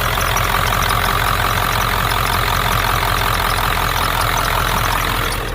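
A 1997 Ford F-450's 7.3-litre Power Stroke turbo-diesel V8 running steadily.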